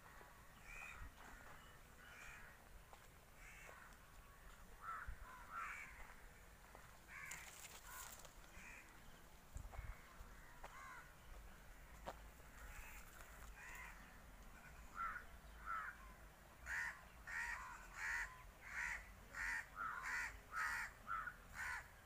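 Birds calling: short calls scattered through, then a steady run of about two calls a second near the end.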